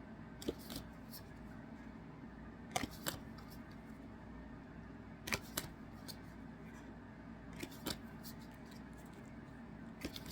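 MetaZoo trading cards being handled and shown one after another: short light clicks, mostly in pairs, about every two and a half seconds, over a low steady room hum.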